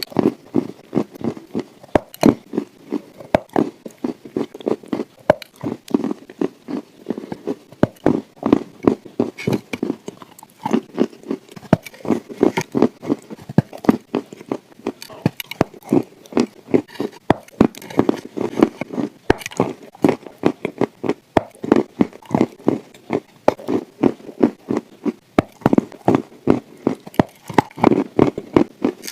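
Dry chalk being bitten and chewed close to the microphone: a steady run of rapid, sharp crunches.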